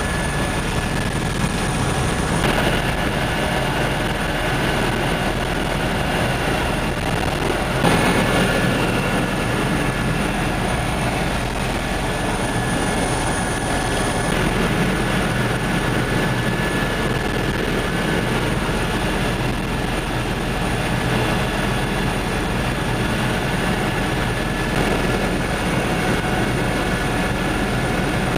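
Helicopter engine and rotor noise heard from inside the cabin in flight: a loud, steady rumble with a constant high whine, swelling briefly twice.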